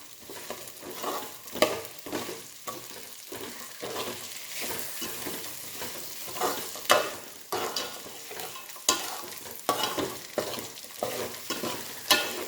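Bird's eye chillies sizzling as they fry in a pan, stirred continually, with frequent irregular scrapes and knocks of the stirring spoon against the pan. The chillies are being sautéed slowly over a low flame for pickle.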